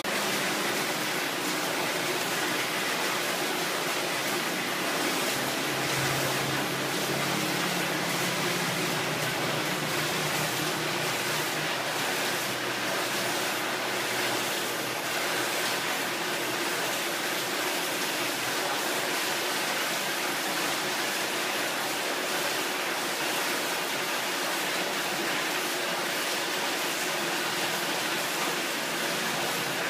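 Steady rushing splash of a graphic waterfall's water curtain, many lines of falling water pouring into its basin.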